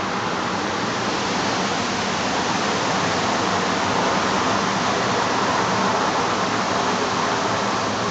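Strong wind of about 8 m/s blowing, a steady rushing hiss with no single gust standing out.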